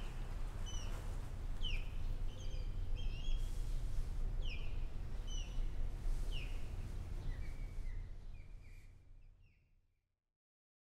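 Bird calls, short downward-sliding chirps repeated about once a second, over a steady low outdoor rumble; everything fades out about nine seconds in.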